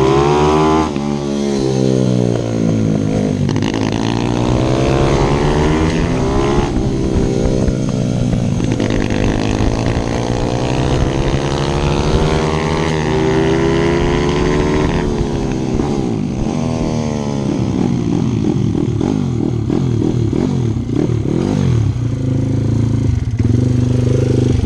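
Single-cylinder four-stroke pit bike engine on track, its revs climbing and dropping again and again. The changes come faster in the last third.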